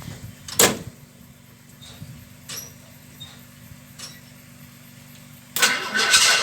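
Cold start of a 1961 narrow-gauge Bombardier snowmobile's engine at −31 °C after a month parked. A few sharp clicks and knocks sound over a faint steady hum, then about five and a half seconds in the engine catches and runs loudly.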